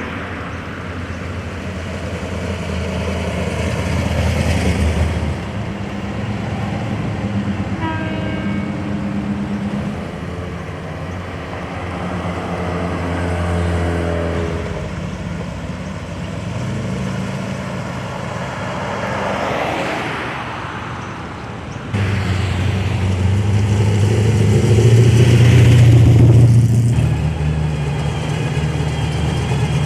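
Car engines running as vehicles drive past, the rumble swelling and fading several times, with a change in pitch from about eight to fourteen seconds in. The sound jumps suddenly louder about 22 seconds in.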